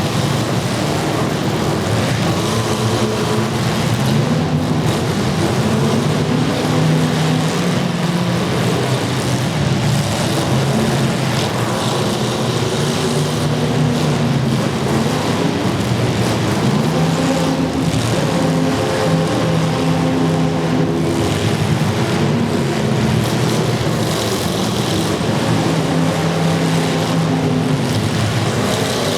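Demolition derby car engines running at full throttle, revving up and down again and again so their pitch keeps rising and falling.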